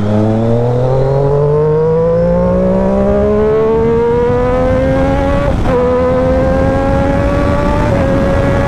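Triumph Daytona 675R's inline three-cylinder engine pulling hard under acceleration, its pitch climbing steadily. It cuts briefly about five and a half seconds in and again near the end as the quick shifter makes clutchless upshifts, the revs dropping a little each time before climbing again.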